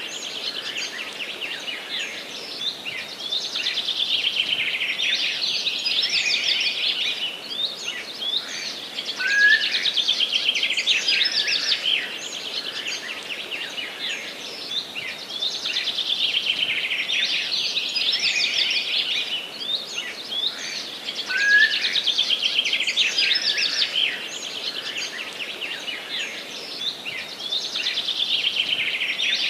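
Forest birdsong: high, rapid trilling phrases a few seconds long, repeating throughout. Two short, lower rising notes come about nine seconds and about twenty-one seconds in.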